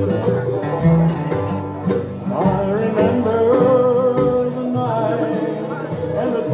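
Live bluegrass band playing an instrumental passage: plucked strings keep the rhythm under a lead line of held notes that slide between pitches.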